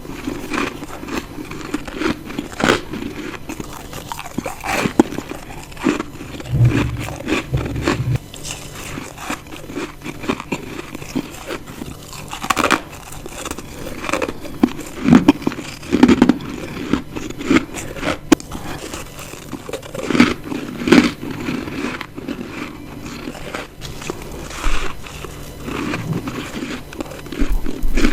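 Close-miked bites into assorted chunks of ice: a series of crisp crunches, one every second or two.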